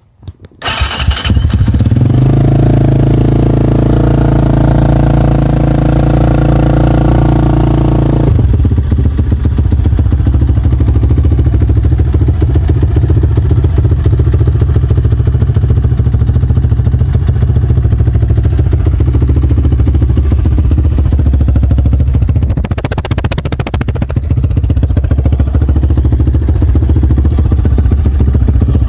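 Ataki EF250R motorcycle engine starting from cold: it catches within the first second and runs with a steady, even note. About eight seconds in, the sound changes to a rougher, pulsing running that continues, with a brief dip around the middle of the last third.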